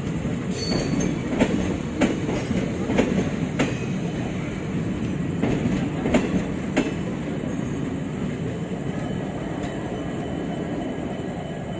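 Train of ICF passenger coaches rolling along the track, a steady rumble broken by irregular clacks of wheels over rail joints during the first seven seconds, then a smoother rumble toward the end.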